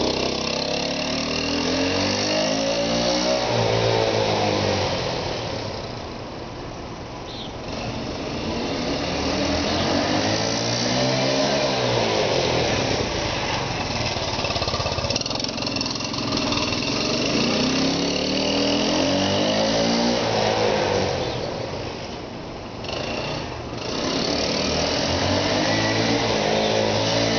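1984 Honda CT110 trail motorcycle's small single-cylinder four-stroke engine being ridden, its pitch rising and falling again and again as the throttle opens and closes. The sound drops quieter twice before coming back up.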